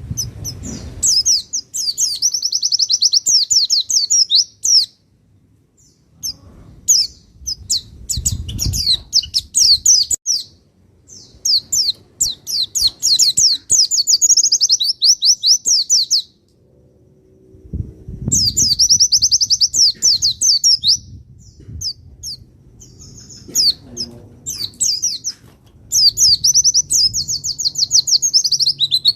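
Pleci (white-eye) singing in rapid, high-pitched twittering phrases of a few seconds each, broken by short pauses. This is the excited, provoking song used as masteran to stir captive white-eyes into singing.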